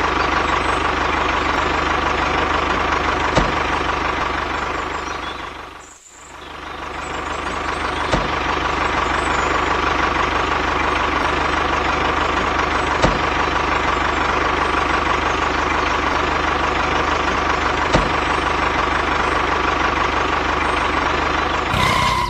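Steady running of the DIY mini tractor's small motor, a constant machine drone with a steady whine and occasional light clicks. It fades out about six seconds in and comes back up.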